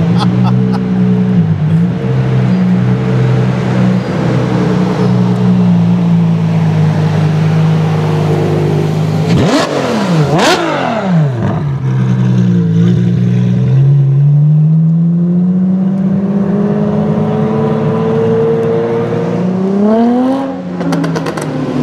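Ferrari F12's V12 engine through an Armytrix aftermarket exhaust, running at low revs with a steady drone. A little under halfway there is a brief spell of quick rising and falling pitch sweeps; then the pitch climbs slowly and rises sharply near the end as the car accelerates.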